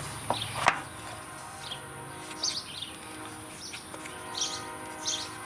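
Small birds chirping in short calls repeated every second or so, over a steady high-pitched hum; a sharp click just under a second in.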